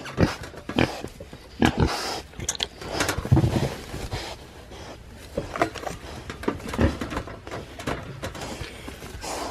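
Pigs eating mandarins and squash: irregular crunching and chewing, with a low grunt now and then.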